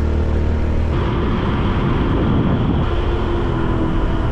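Motorbike engine running while riding, a steady note with a shift in its sound about a second in.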